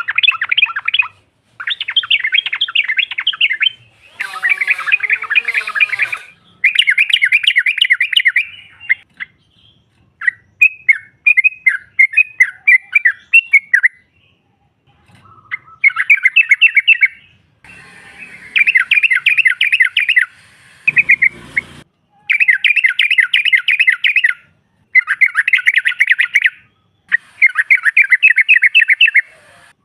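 Yellow-vented bulbul calls: fast, bubbly chattering phrases of about two seconds each, repeated over and over with short gaps. A different, lower wavering call comes in about four seconds in, and there is a single brief knock past the middle.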